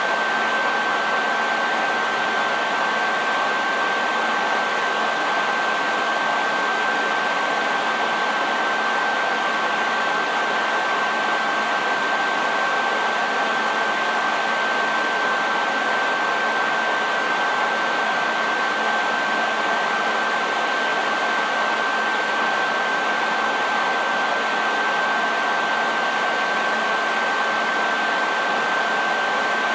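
Handheld hair dryer running steadily on one setting: a constant rush of blown air with a steady high whine from the motor and fan and a faint low hum underneath.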